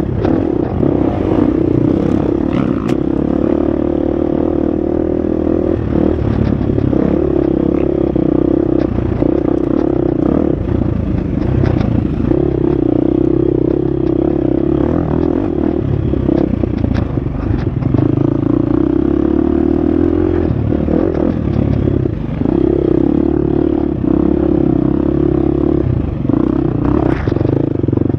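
Husqvarna FX 350 four-stroke single-cylinder dirt bike engine running hard on a trail, its note rising and falling every few seconds as the throttle opens and closes, with frequent clicks and clatter from the bike and terrain.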